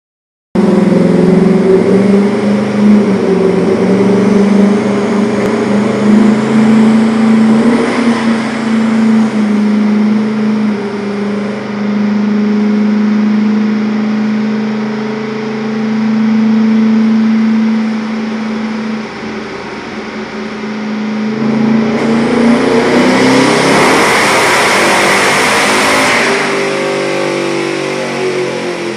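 Turbocharged, nitrous-fed 347 cubic-inch V8 in a Corvette running on a chassis dyno. It holds a loud, steady engine note for most of the run. Late on it goes harsher and louder for about four seconds, then settles back down to a lower note.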